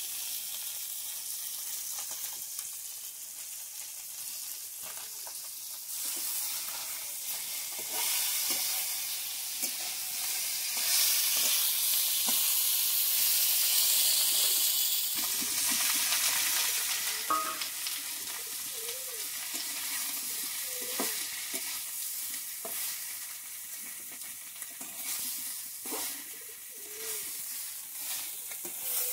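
Small shol fish frying in hot oil in a metal pan, sizzling steadily, with a metal spatula scraping and knocking against the pan as they are stirred. The sizzling is loudest around the middle.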